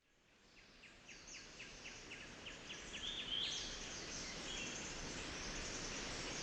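Jungle ambience fading in from silence: short chirping calls repeat about four times a second over a steady hiss, and higher calls join about three seconds in.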